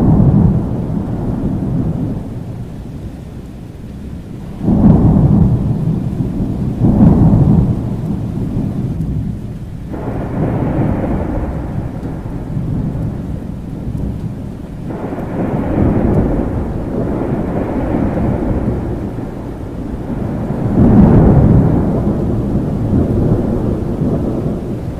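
Thunderstorm: steady rain under repeated rolls of thunder. Rumbles break in suddenly about five and seven seconds in, and the loudest returns near the end.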